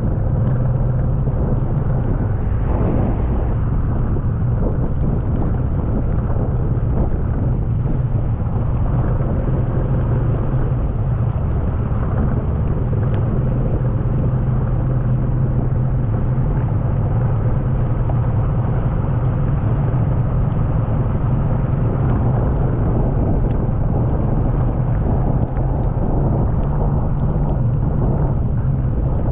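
Floodwater running over a flooded road ford: a steady, loud rushing with a constant low rumble that does not change.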